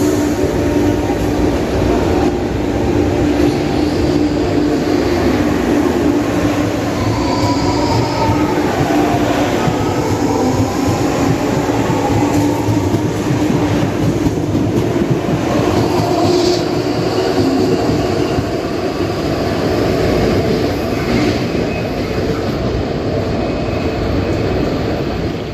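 CPTM commuter train running on its rails: a steady rumble and rush with a held low tone, and a whining tone that dips and rises again about a third of the way in.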